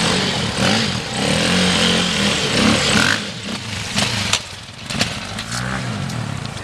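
Dirt bike engine revving up and down repeatedly as it is ridden, with a few sharp knocks about halfway through.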